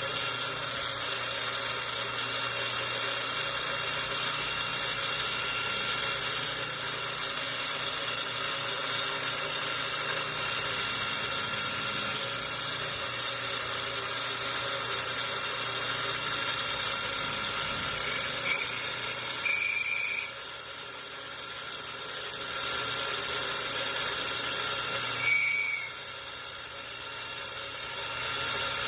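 A woodworking power tool running steadily as it cuts wood. There are short high squeals about 18, 20 and 25 seconds in, and the sound drops off for a moment after the last two.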